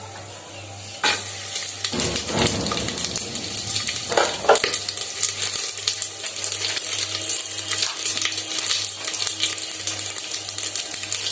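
Whole spices dropped into hot oil in a pan: a sudden sizzle starts about a second in and keeps crackling and spitting steadily, with a couple of knocks from the pan around the middle.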